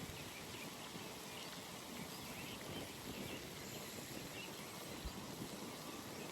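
Outdoor pond ambience: a steady, soft background hiss with faint, scattered high chirps, likely small birds in the distance.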